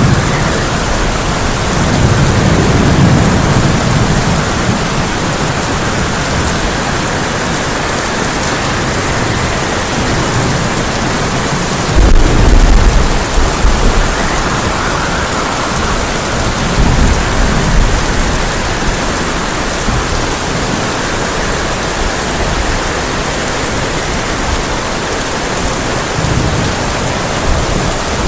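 Heavy rain pouring steadily on a tin roof, with wind swelling and easing. Thunder rumbles a couple of seconds in, a louder, sudden crack of thunder comes about twelve seconds in, and another rumble follows a few seconds later.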